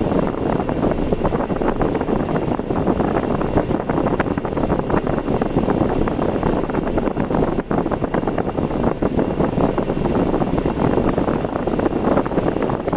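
Steady road and wind noise from a car driving, with a constant fluttering rumble.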